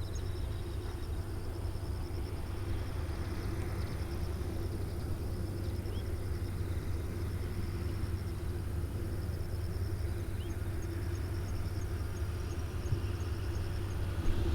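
Steady low outdoor rumble of distant engine noise, with insects chirping in a regular high pulsing rhythm.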